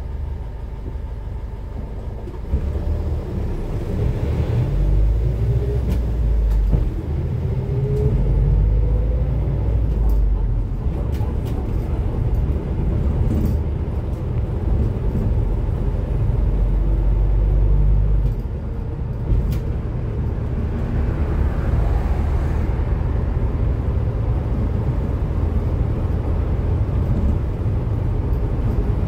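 Cummins ISF3.8 four-cylinder turbodiesel in a Daewoo Lestar bus, heard from aboard the bus. It runs at idle, then pulls under load from about two seconds in, its note climbing, and eases off about eighteen seconds in before running on steadily.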